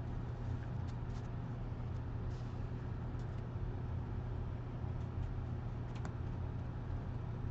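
Steady low hum of background room noise, with a few faint, scattered clicks of trading cards being handled.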